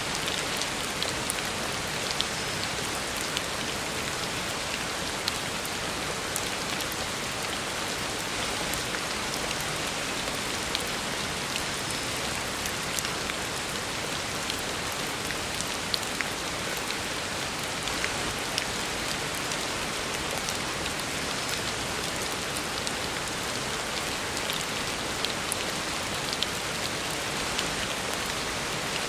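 Heavy rain falling on a road: a steady hiss of rain with many sharp drop splashes scattered through it.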